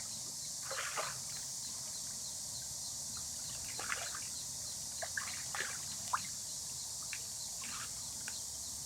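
Water dripping and trickling in scattered short plops over a steady high hiss.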